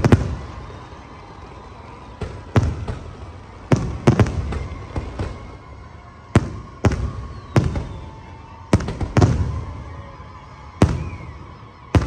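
Fireworks display: aerial shells and comets bursting in about a dozen sharp bangs at uneven intervals of roughly a second, some in quick pairs. Each bang fades off in a rumbling echo.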